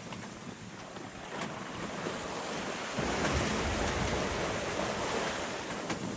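Wind and sea noise aboard a sailboat under way: waves washing and wind buffeting the microphone, with a louder low gust of rumble from about halfway through.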